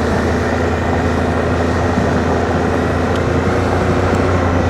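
Suzuki V-Strom adventure motorcycle engine running steadily at an even speed, with wind and tyre noise over it.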